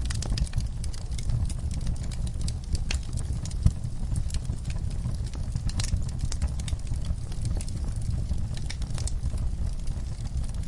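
Wood fire in a fireplace crackling: irregular sharp pops and snaps over a steady low rumble, with one louder pop about a third of the way in.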